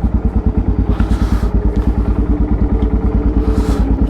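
Yamaha XT660X supermoto's single-cylinder engine idling, with a steady, even beat of several low thumps a second.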